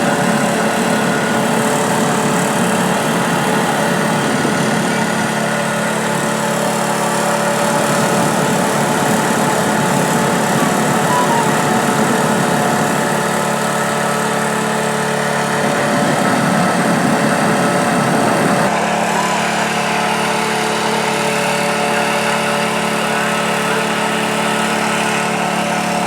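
A small engine running steadily at an even pitch, with a slight change in tone around two-thirds of the way through.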